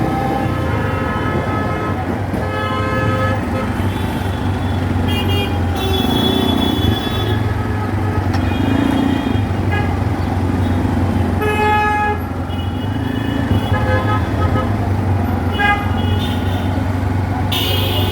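Road traffic with vehicle horns honking again and again, short and longer blasts of several tones, over a steady low engine hum.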